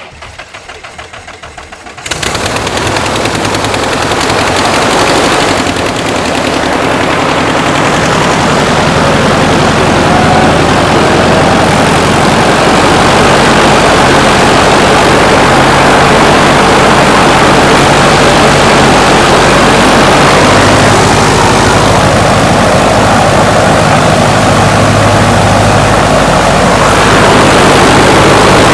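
Light aircraft's fuel-injected piston engine turning over on the starter, catching about two seconds in, then running loud and steady with the propeller turning. The engine note steps up a little about two-thirds of the way through.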